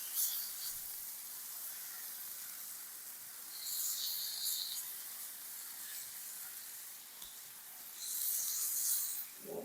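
Chicken breasts frying in olive oil in a cast iron skillet: a steady sizzle that swells louder twice, about four seconds in and again near the end.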